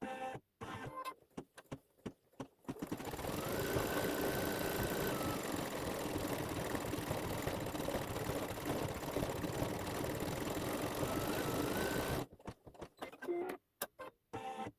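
Embroidery machine stitching. It clicks in short stop-start bursts for the first couple of seconds, then runs steadily at speed with a motor whine for about nine seconds, then goes back to short stop-start bursts near the end.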